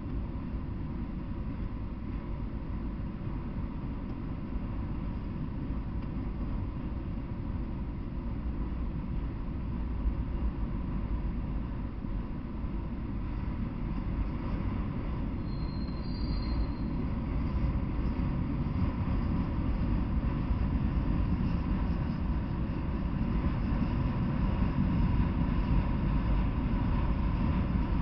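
Freight train of autorack cars rolling past, a steady low rumble that grows gradually louder, with a brief high squeal a little past halfway.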